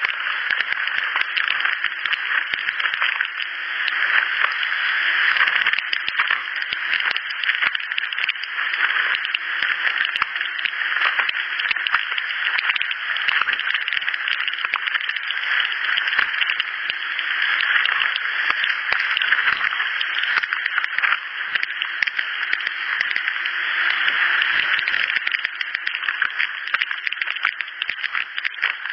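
A steady, dense insect-like buzz with a fine rapid crackle and a faint low hum beneath, on a night field recording. The recordist files it as unknown insects and likens it to a house fly.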